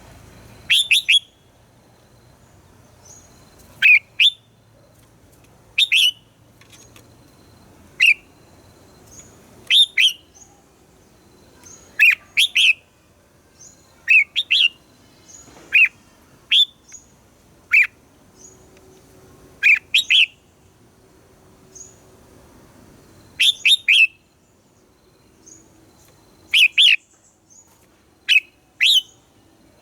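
Red-whiskered bulbul singing short, loud phrases of two or three quick notes, about one phrase every two seconds, with fainter high chirps in between.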